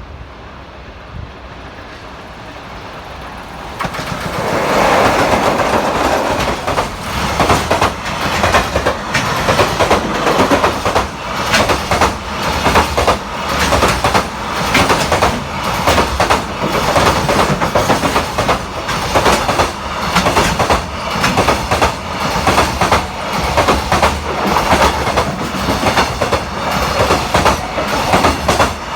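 Freight train hauled by an EF66 electric locomotive passing close by. It grows loud suddenly about four seconds in, then the wheels clatter over the rail joints in a steady clickety-clack.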